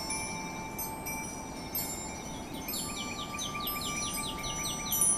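Wind chimes ringing steadily. About halfway in, a northern flicker gives a rapid series of about a dozen short, falling notes, about five a second.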